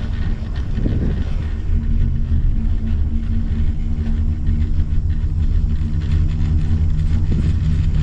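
Steady low rumble and hum of a moving gondola cabin riding the lift cable. A steady droning tone joins about a second and a half in.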